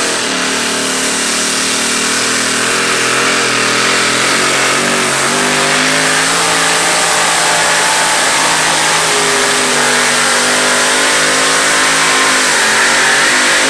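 Engine of a 1923 bucket-bodied pulling truck running hard at high revs under load as it drags a pulling sled, its pitch wavering slightly but staying high.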